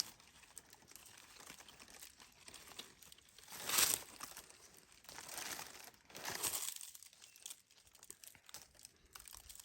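Dry leaves and brush rustling and crackling underfoot and against the body. There is a loud crunch about four seconds in and a longer rustle around six seconds.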